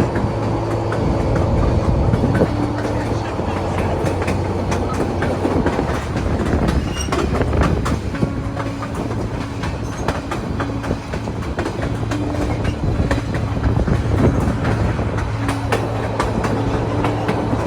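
Passenger train car rolling along the track: a steady rumble with the clickety-clack of wheels over rail joints.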